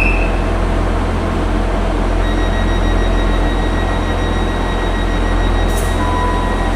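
A train's steady running rumble. A thin high whine joins it about two seconds in, and a short beep sounds near the end.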